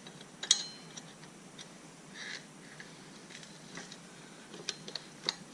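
Scattered metallic clicks and clinks from a dirt bike's chain being handled and fitted, with one sharper ringing clink about half a second in.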